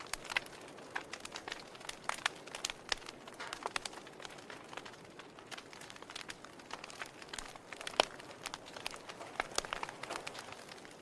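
Wood fire crackling in a fireplace: irregular pops and snaps of burning firewood over a low steady hiss, with one sharp louder pop about eight seconds in.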